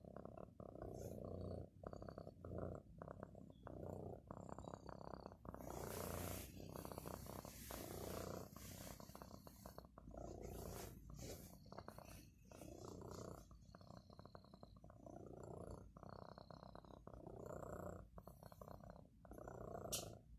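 Domestic cat purring steadily and quietly, the purr swelling and easing with each breath about every two seconds.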